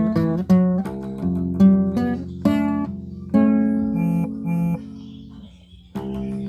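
Acoustic guitar playing a slow melody of plucked notes, one every half second or so, then a longer note left to ring and fade before the plucking starts again near the end.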